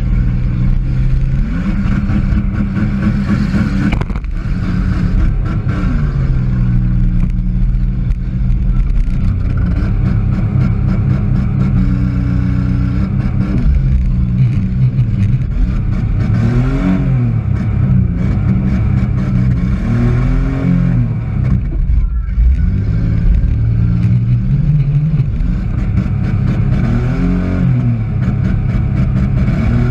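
Demolition derby car's engine heard from inside the car, revving up and down over and over as it accelerates and backs off.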